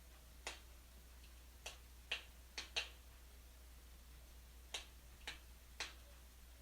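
Wood fire in a fireplace crackling: eight sharp, irregular pops, some coming in quick pairs, over a faint steady hum.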